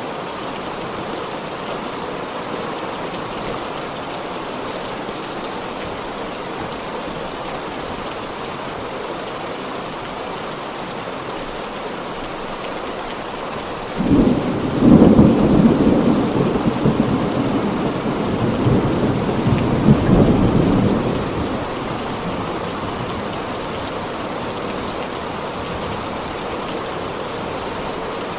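Heavy rain falling steadily, with a single thunderclap about halfway through that cracks suddenly and rolls on as a low rumble for about seven seconds before dying away.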